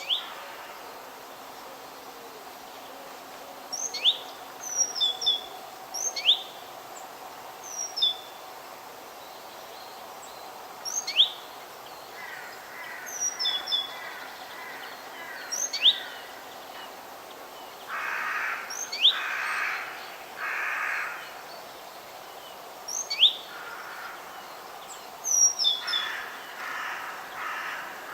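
Forest birdsong: a small bird gives short, sharp high chirps every couple of seconds over a steady background hiss. About two-thirds of the way through, three harsh calls come in a row, and more follow near the end.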